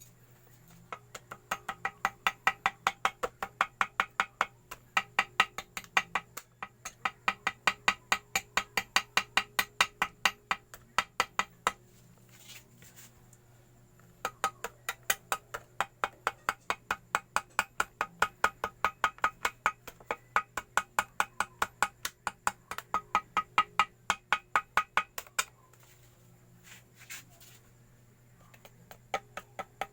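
Small hammer tapping rapidly on metal, about five light, ringing strikes a second, in runs of several seconds broken by short pauses. This is typical of tapping gasket paper against the edge of a motorcycle engine case to cut out a homemade gasket.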